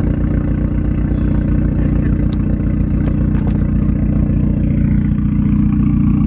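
Car engine idling steadily just after a cold start, with an even low pulsing from the exhaust.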